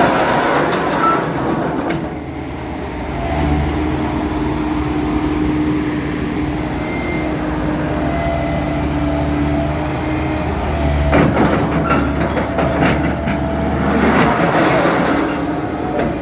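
Diesel engine of a Bomag vibratory roller running under load as it climbs onto a truck, swelling a few times, with clanking about eleven seconds in and again near the end.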